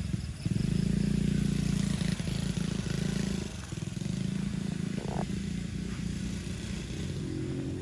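Small motocross bike's engine running steadily as it is ridden around the track, dipping briefly about halfway through.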